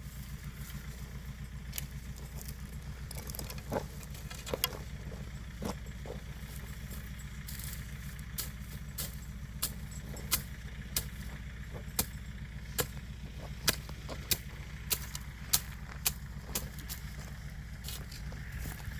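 An engine idling steadily, with a series of sharp knocks over it that come more often and more regularly in the second half.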